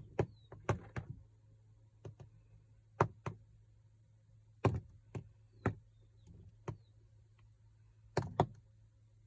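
Sharp, irregular knocks and taps, many coming in quick pairs about a quarter-second apart, with a few faint, short high bird chirps in between.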